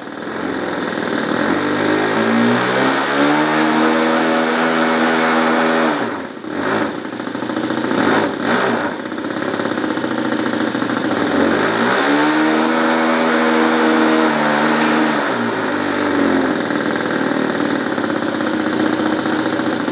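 Model airplane glow engine spinning a propeller, throttled up twice, its pitch climbing to a few seconds of high revs each time and dropping back to idle; it is running a little rich.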